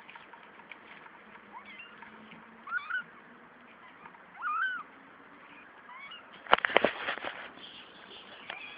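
Three-week-old kittens mewing: thin, short mews that rise and fall, the two clearest about a third and halfway through. A quick run of sharp knocks about three-quarters through is the loudest sound.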